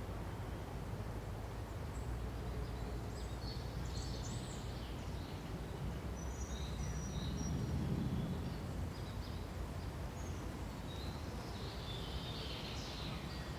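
Forest ambience: a steady low rush of wind through the trees, swelling briefly about halfway through, with scattered short high bird chirps and trills on top.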